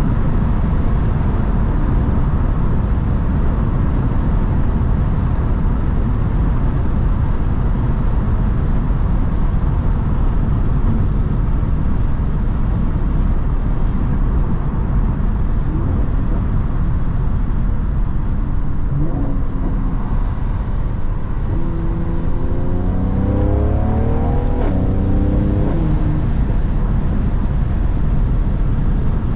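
Mercedes-AMG C43 on the move: a steady low drone of engine and road noise, and about 22 seconds in the engine note rises for a few seconds as the car accelerates.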